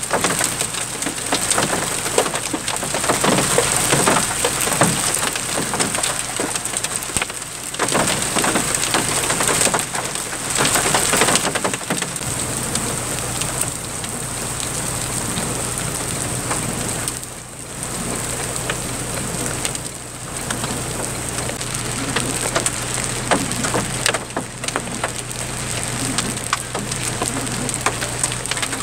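Large hailstones and heavy rain pelting down, a dense clatter of countless small impacts over the rushing of the rain, heaviest in the first dozen seconds.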